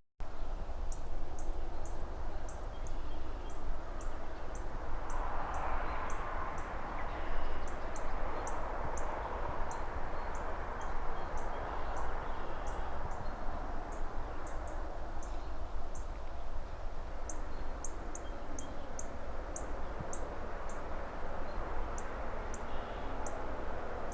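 City ambience: a steady low rumble of distant traffic under a rushing hiss, like passing cars or wind in trees, that swells from about five to twelve seconds in. Over it run a quick, uneven string of high ticks and faint bird chirps. The sound drops out for a split second right at the start.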